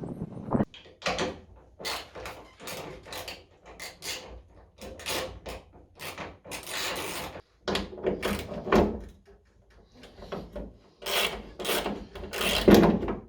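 Irregular clattering and scraping of hand tools on metal parts while the hood hinges are bolted on, a dozen or so short sounds at uneven spacing.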